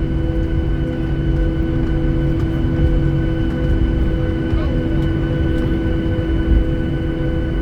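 Airliner cabin noise during taxi: the jet engines' steady hum, several constant tones held over a low rumble.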